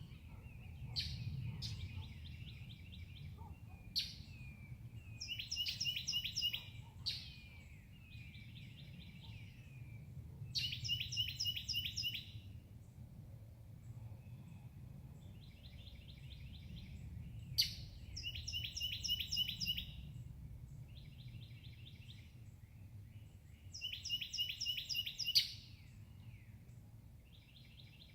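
Songbird singing: short phrases of rapid, high, repeated notes, one every few seconds, with a steady low rumble underneath.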